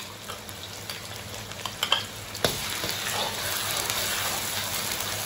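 Soybean paste and chili paste sizzling in hot oil with chopped scallion, ginger and garlic in an iron wok, stirred with a metal ladle. There are a couple of sharp clicks about two and two and a half seconds in, and the sizzle is a little louder after them.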